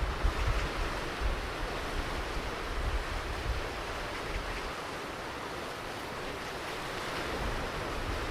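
Ocean surf washing onto a beach, a steady hiss of breaking waves, with low wind buffeting on the microphone in the first second or so.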